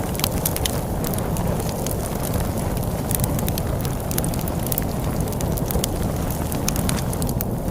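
Wood fire crackling, with frequent sharp pops and snaps, over a steady low rumble of storm wind.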